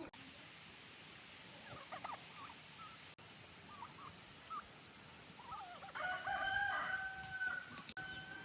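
Rooster crowing: one long held call near the end, the loudest sound, after a few short scattered bird calls.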